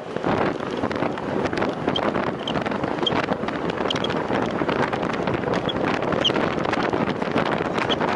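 Steady wind rushing and buffeting over the microphone of a time-trial bicycle ridden at race speed. A few faint, short, high chirps are scattered through it.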